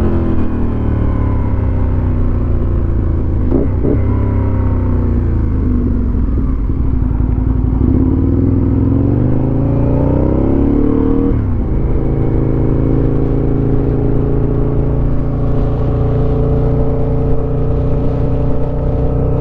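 2008 Aprilia RSV Tuono Factory's V-twin engine through its dual GPR exhaust while riding. The revs fall at first, with a quick gear change a few seconds in. Then they climb and drop sharply just past halfway, and after that it holds a steady note at cruising speed, heard from a microphone inside the rider's jacket pocket.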